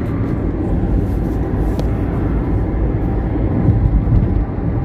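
Steady low rumble of a moving car heard from inside the cabin: tyre, engine and wind noise.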